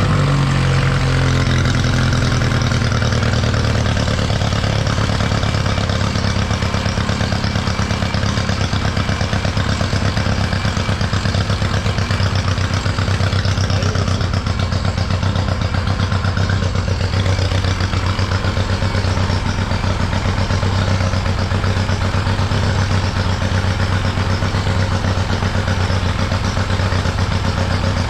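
Parsun 25 hp outboard motor running steadily at idle with its new carburetor fitted, after dropping down from higher revs right at the start.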